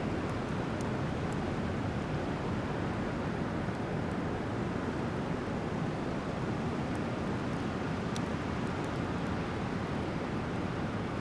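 Driftwood bonfire burning, with a few faint sharp crackles over a steady, even rushing noise.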